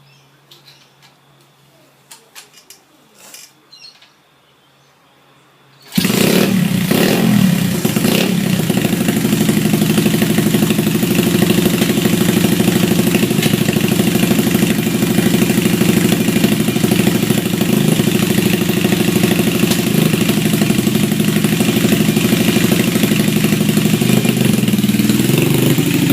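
A few light clicks over low background for about six seconds, then a pit bike's engine comes in suddenly and loud and runs at a steady pitch for the rest.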